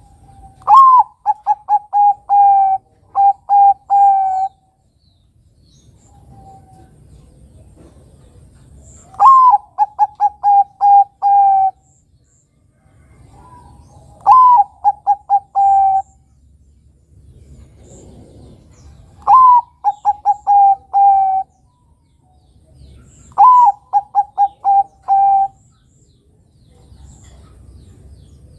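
Bangkok-type zebra dove (perkutut) singing: five cooing phrases a few seconds apart. Each phrase opens with a rising note and breaks into a quick run of short, even coos.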